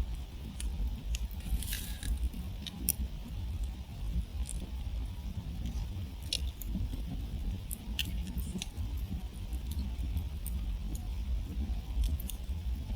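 Wood campfire crackling, with irregular sharp pops and snaps scattered throughout and a brief cluster of crackles about two seconds in, over a low steady rumble.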